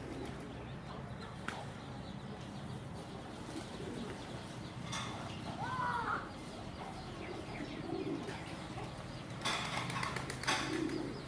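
Pigeons cooing softly every few seconds, with a higher arching bird call about six seconds in and short rustles.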